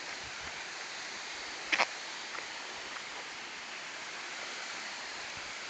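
Steady rush of falling water from the waterfall, an even hiss. A short, sharp double sound, a knock or clack, stands out a little under two seconds in.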